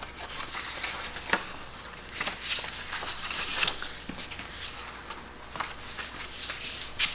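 A folded sheet of printer paper being unfolded and handled, with soft rustling and several short crisp crackles.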